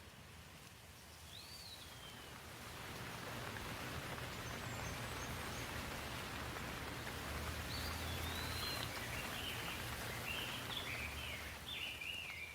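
Steady rain falling, swelling in over the first few seconds and easing slightly near the end, with songbirds chirping: one short call about a second and a half in and a run of quick chirps over the last few seconds.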